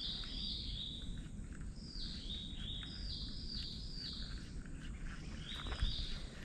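A bird calling repeatedly in runs of high two-step notes, each stepping down from a higher pitch to a lower one, over a low steady background rumble.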